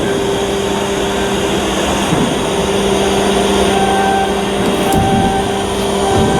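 Machinery running steadily, a constant hum with higher tones that come and go.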